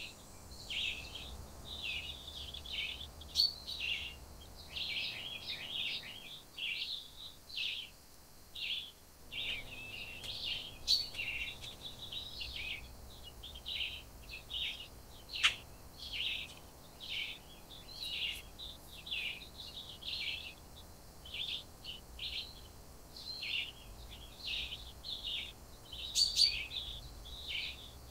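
Small birds chirping in quick, short notes, several a second and almost without pause, with a few sharp clicks among them.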